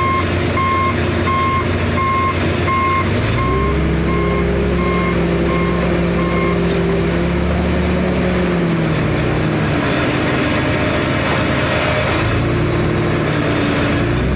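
Heavy tractor's engine running with its reverse alarm beeping, nearly two beeps a second, until a little past halfway. The engine revs up a few seconds in, drops back around the middle and revs up again near the end.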